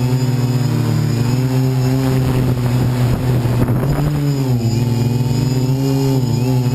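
Quadcopter's brushless motors and propellers humming steadily, heard through a GoPro mounted on the frame. Wind rushes across the microphone in the middle, and the pitch dips twice near the end as the motors change speed.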